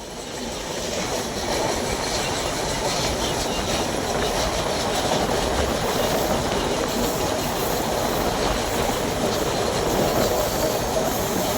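Passenger train running on the rails: a steady, dense noise of wheels and carriage that builds up over the first second or so and then holds.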